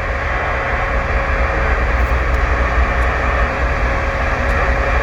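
Steady vehicle running noise heard from inside the cab: a low engine and road rumble with a constant hiss and a faint steady hum.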